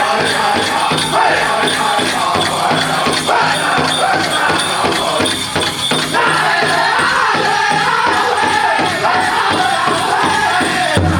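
Powwow drum group singing in high-pitched voices over a steady drumbeat for a men's chicken dance, with jingling of dancers' bells.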